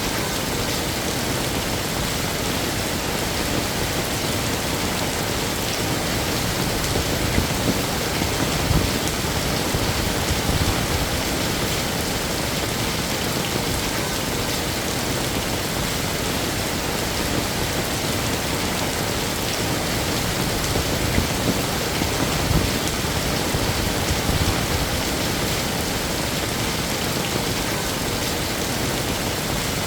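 Heavy rain falling steadily, with a few brief low rumbles and gusts around the middle.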